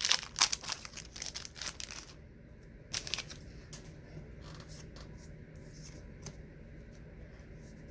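A trading-card wax pack being torn open, its wrapper crinkling. Most of the tearing comes in the first two seconds, with one more rustle about three seconds in, then only light scattered rustles and clicks.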